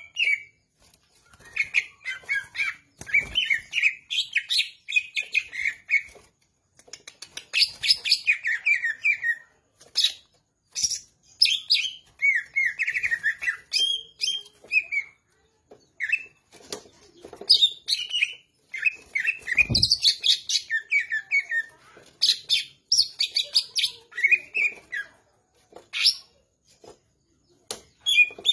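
Cucak ijo (greater green leafbird) singing a long, varied song of rapid, quickly changing chirps and whistled phrases, broken by brief pauses. A dull thump about twenty seconds in.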